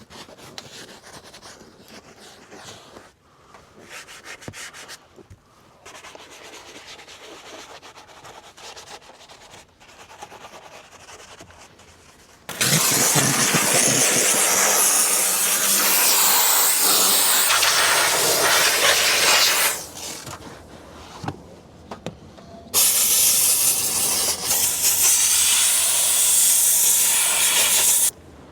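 A brush scrubbing sprayed cleaner into a vehicle's interior surfaces. About halfway through, a steam cleaner starts hissing loudly in a long blast that cuts off after about seven seconds, then a second blast follows near the end.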